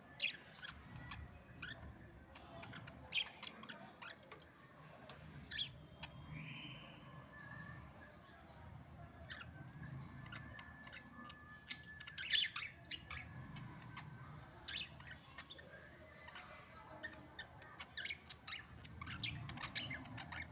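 Budgerigars chirping and chattering, with short, sharp calls standing out a few times.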